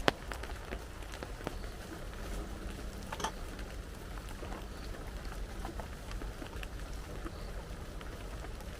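Steady rain with scattered drops ticking, and a sharp click right at the start.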